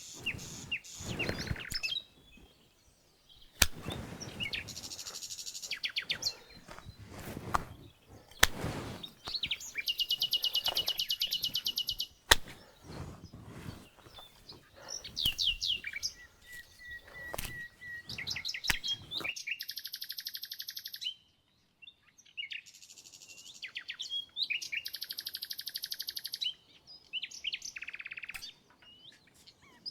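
Songbirds chirping and trilling, with fast pulsed trills and a held whistle. Through the first two-thirds there are irregular knocks and clatter of cooking work, one sharp knock a little before halfway; after that only the birds.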